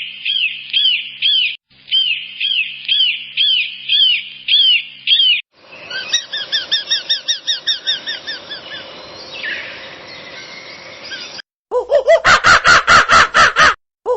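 Bird calls in three separate clips cut together: first sharp repeated chirps, a few a second; then a different bird's rapid run of notes over a hiss; then, from near the end, loud harsh calls repeating about five a second.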